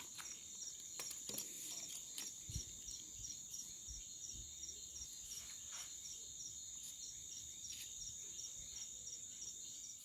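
Crickets chirping: a steady high trill with a pulsed chirp repeating about two to three times a second, and a few faint knocks.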